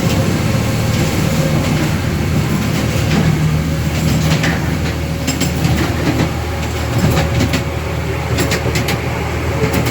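Miniature railway train running along its track: a steady low rumble with scattered clicks of the wheels over the rail joints.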